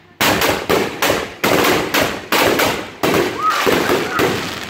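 A 16-shot firework rack firing in quick succession: about ten sharp bangs, roughly two a second, each dying away before the next.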